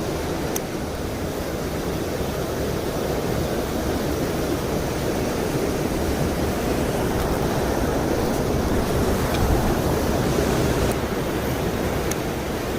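Mountain stream water rushing steadily, a dense low rush of flowing water with a few faint ticks over it.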